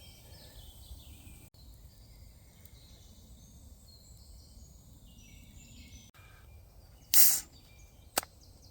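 Songbirds singing over a low outdoor rumble. About seven seconds in there is a loud, short hiss, then a sharp click a second later, as a can of ale is opened.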